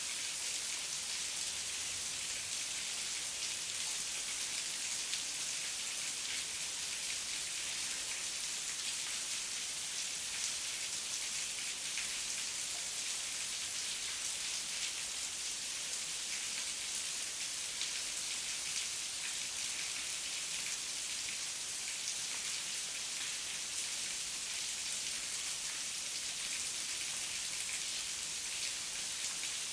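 Heavy rain falling steadily, a dense, even hiss of drops with many small pattering hits.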